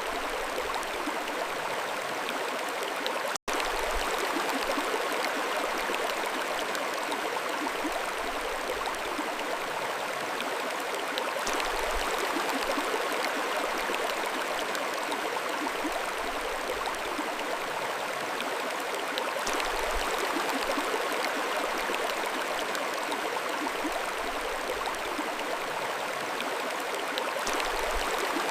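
Mountain stream flowing, a steady rushing of water, broken once by a momentary dropout about three seconds in.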